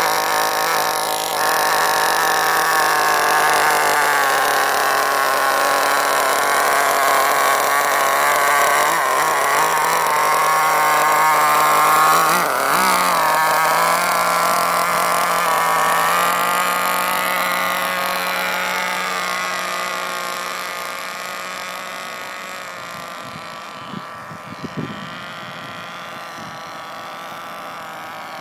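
O.S. .18 glow (nitro) engine with a THS exhaust on an HPI RS4 3 Evo RC car, running steadily at a high, even pitch. It grows quieter after about twenty seconds, and a few short knocks come near the end.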